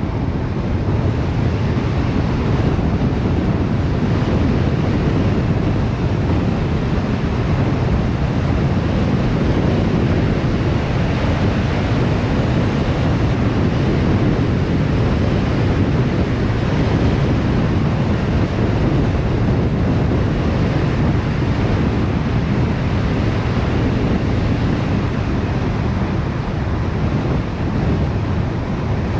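Steady road and wind noise from a car driving along, an even rumble heaviest in the low range with no change throughout.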